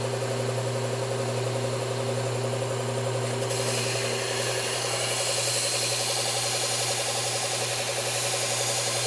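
Belt sharpener running a 120-grit Cubitron abrasive belt, its motor humming steadily while a steel tool edge is ground against the belt; the grinding hiss grows stronger about three and a half seconds in.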